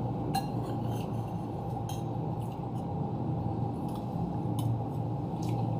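Cutlery lightly clicking against a plate or bowl during eating: a few scattered, irregular clicks over a steady low background hum.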